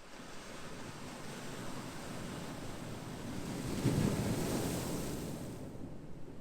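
Ocean waves on a shore: the surf swells to a wave breaking about four seconds in, then eases off as it washes back.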